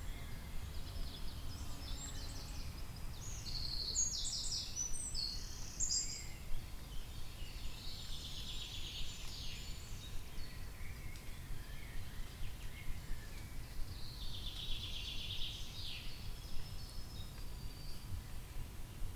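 Songbirds singing in short bursts of rapid, trilled notes, three times over, above a steady low rumble.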